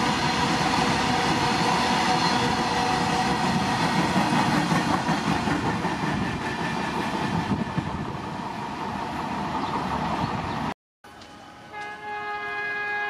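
A passenger train passing at speed: a loud, steady rumble of wheels on the rails that slowly eases off. After a sudden cut, a locomotive horn sounds near the end, a chord of several tones held for about two seconds.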